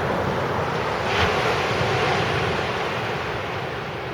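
Surf breaking and washing up a sand beach, swelling about a second in and then slowly easing, with wind buffeting the microphone.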